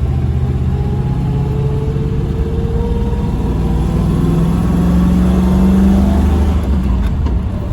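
Chevy V8 engine pulling steadily under load while towing about 2,500 kg, its exhaust running through a Walker Quiet-Flow muffler. The engine note rises slowly and gets a little louder past the middle, then eases slightly near the end.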